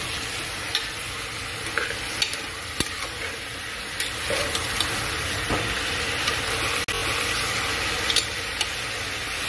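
Sliced bitter gourd frying in oil in a pressure cooker, a steady sizzle, while a steel ladle stirs it with scattered scrapes and taps against the pot.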